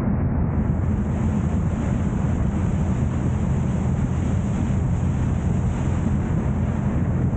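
Steady low rumble of a car driving, with road, engine and wind noise picked up by a vehicle-mounted action camera. A faint high hiss joins about half a second in.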